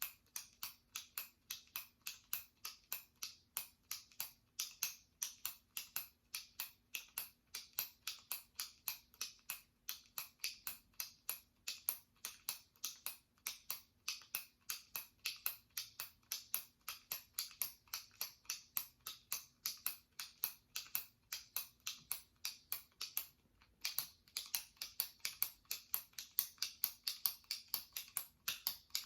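Jumbo retractable pen clicked over and over by pressing its top button: sharp plastic clicks at about three a second, with one brief pause near the end.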